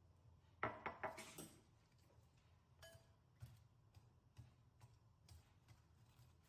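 Kitchenware clinking against a glass bowl: a quick run of sharp clicks and knocks with a short ring about half a second in, then a few scattered light clicks.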